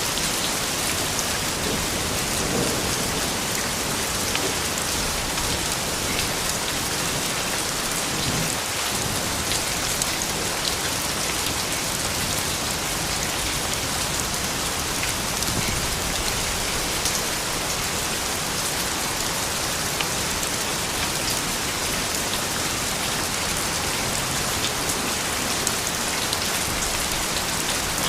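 Steady rain falling and pattering on surfaces, with individual drop ticks.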